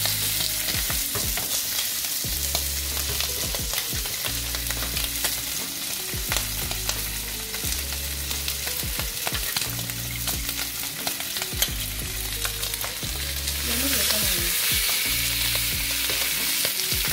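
Salmon steaks searing in hot oil in a nonstick grill pan, a steady sizzle with fine crackling. The sizzle grows louder about fourteen seconds in as a third steak goes into the pan.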